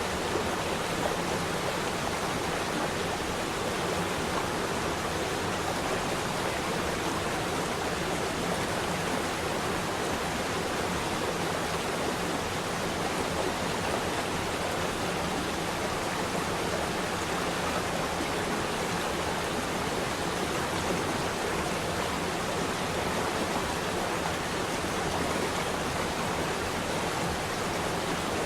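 Flowing water rushing steadily, a continuous even hiss with no breaks or separate splashes.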